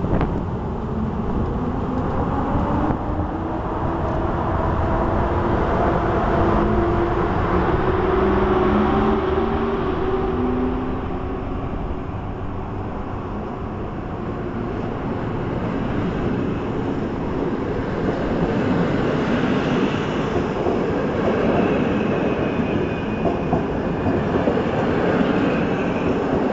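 PKP Intercity train hauled by an EP07 electric locomotive passing along the platform: several falling whining tones in the first half, then the steady rolling noise of the coaches' wheels, with a thin high squeal near the end.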